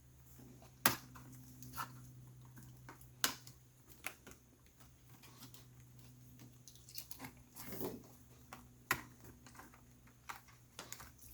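Scattered light clicks and taps of small laptop parts being handled during disassembly, irregular and a few seconds apart, over a faint steady hum.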